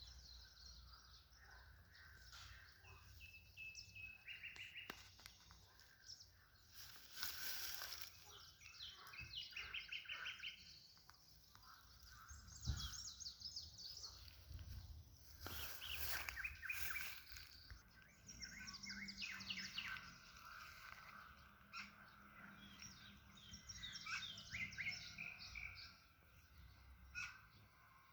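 Songbirds singing, phrase after phrase of quickly repeated notes and short trills, sometimes overlapping, over a faint outdoor background. Two brief rushing noises stand out, about seven and sixteen seconds in.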